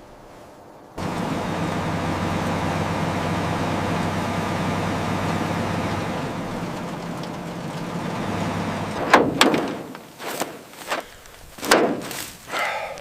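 A steady engine-like hum with a noisy wash starts about a second in and holds for several seconds, then fades; a handful of sharp knocks and thumps follow near the end.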